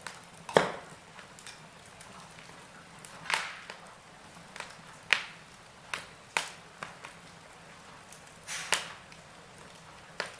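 Wood fire in a fireplace crackling: sharp, irregular pops and snaps about a second apart over a faint steady hiss, the loudest about half a second in.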